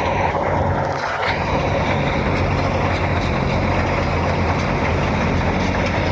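Mahindra combine harvester running steadily at work, its engine drone mixed with the dense noise of the cutting and threshing machinery.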